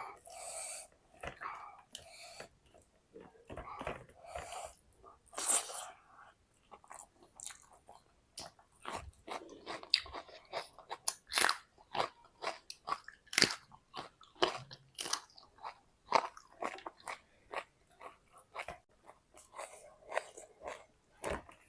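A person eating close to the microphone: crisp, crunchy bites and chewing, a rapid irregular run of sharp crunches.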